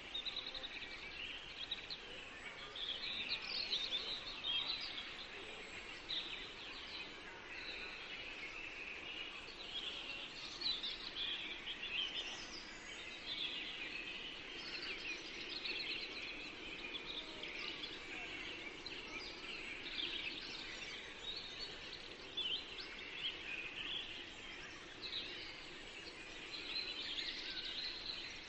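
Forest birdsong: many small birds chirping and trilling at once, overlapping calls with no pause, over a faint steady background hiss.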